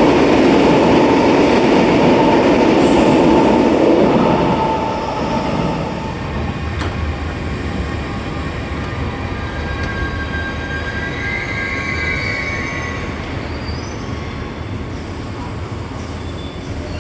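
RER A electric multiple-unit train in an underground station: loud running noise with a steady tone for about four seconds, dying away over the next two seconds to a low hum, with a brief faint wheel squeal later on.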